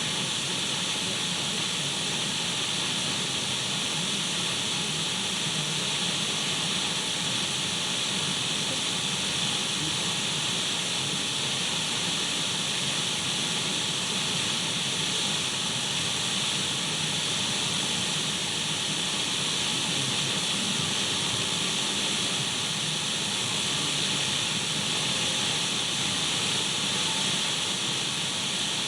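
Steady hiss of radio static from an untuned radio, even and unchanging, brightest in the upper-middle range.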